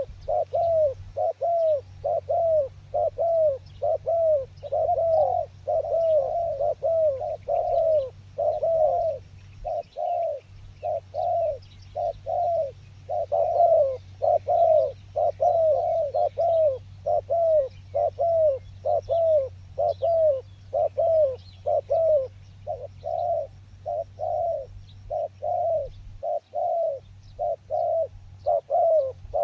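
A dove cooing in a fast, unbroken run of short, arching notes, about two a second, with a low steady rumble underneath.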